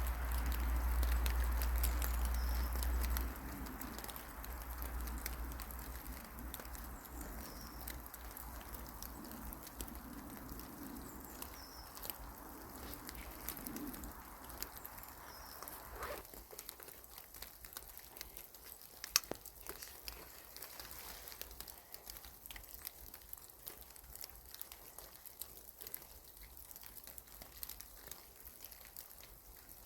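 Quiet forest ambience with a few faint, high bird chirps and scattered small ticks and crackles. A low rumble fills the first three seconds, then drops away.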